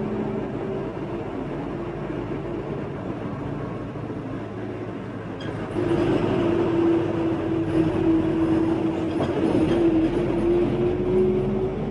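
Motorbike engine running on the move with road and wind noise. About halfway through the sound gets louder and a steady engine note comes in, rising slightly near the end.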